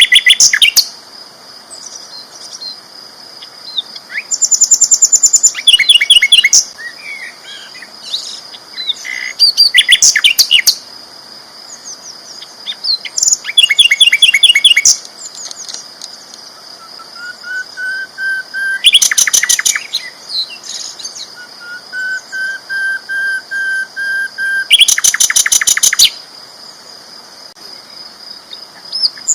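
Sikatan londo flycatcher singing loud and continuously, in repeated bursts of fast chattering trills a second or two long with short pauses between, and two longer thin drawn-out whistles in the middle. A steady high tone runs underneath.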